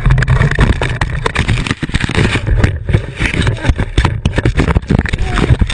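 A vehicle running at speed, with a steady low rumble of engine and road noise and many sharp knocks and rattles.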